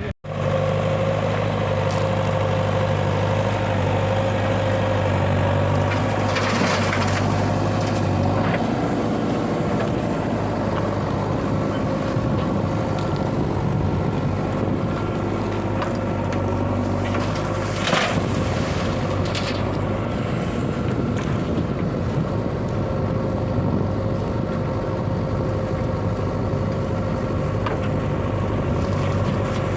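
Heavy diesel engine of earthmoving machinery running steadily with a low hum, with a few short rushing sounds about 7 and 18 seconds in.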